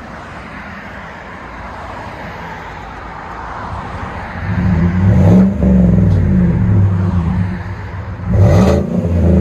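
2018 Chevy Silverado's 5.3L V8 breathing through a Flowmaster 40 Series muffler with the resonator deleted, idling, then revved hard about halfway through and held up. It dips briefly and climbs again near the end.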